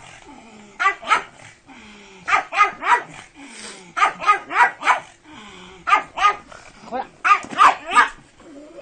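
Pug barking in about five quick runs of two to four short, sharp barks, with brief pauses between the runs.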